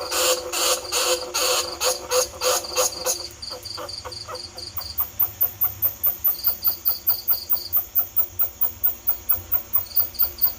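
Recorded greater bandicoot rat calls played as a trapping lure: repeated squeals, harsh and loud for about the first three seconds, then a faster, even run of short squeaks at about three or four a second.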